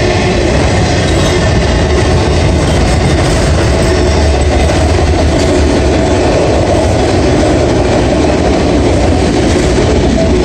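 Freight train of enclosed autorack cars rolling past close by: a loud, steady rumble of steel wheels on rail, with a few thin, steady whining tones over it.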